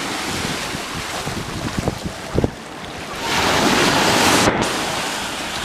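Ocean surf breaking and washing up the beach, with wind buffeting the microphone. A wave comes in louder about three seconds in, then fades.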